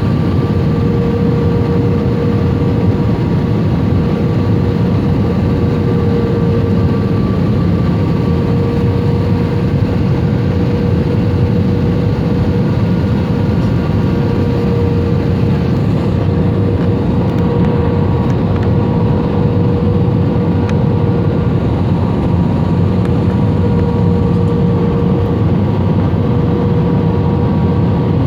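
Aircraft cabin noise in flight: the steady roar of the engines and airflow with a constant drone over it.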